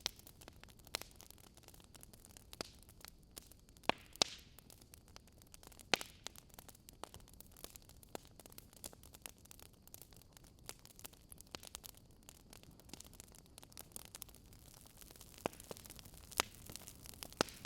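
Wood fire in a fireplace crackling: irregular sharp pops and snaps over a soft steady hiss, with the loudest pops about four seconds in, around six seconds, and twice near the end.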